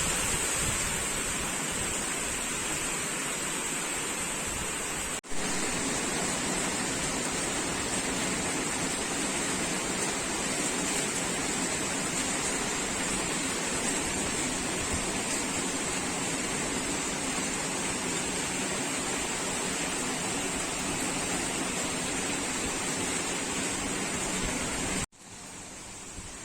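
Heavy rain falling steadily as an even hiss. It breaks off for an instant about five seconds in, then drops to a quieter level near the end.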